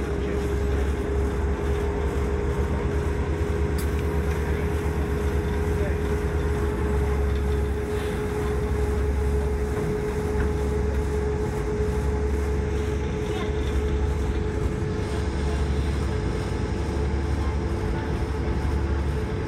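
Passenger train running at speed, heard from inside the carriage: a steady low rumble with a constant hum held above it.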